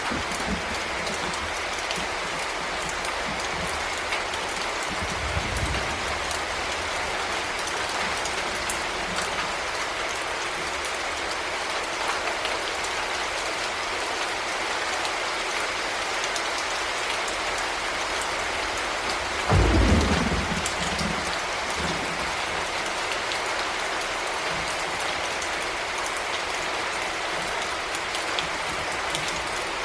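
Heavy rain falling in a steady hiss, with a low rumble of thunder about twenty seconds in and a fainter one near the start.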